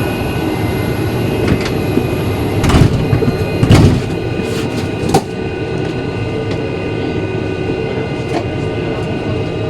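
Airliner cabin door being worked by hand: a few heavy metal clunks and knocks of the door mechanism, the loudest about four seconds in, over the steady hum of the cabin air system.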